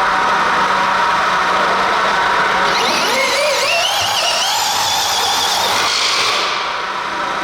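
Motor of a radio-controlled pulling model winding up under load: a high whine that climbs in pitch about three seconds in, wavers, and dies away after a few seconds, over steady background noise.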